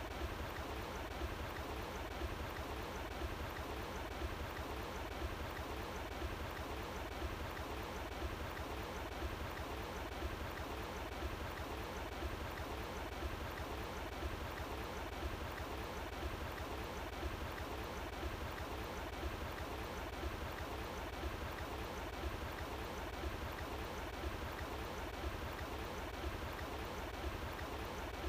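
Running water flowing steadily and evenly, with a low rumble underneath the rush.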